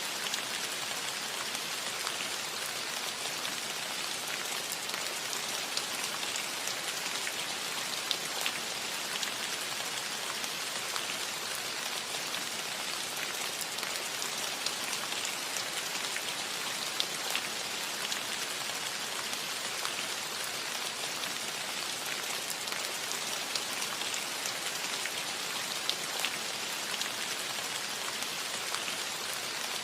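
Steady rain falling on a cottage roof, an even patter with scattered individual drop ticks.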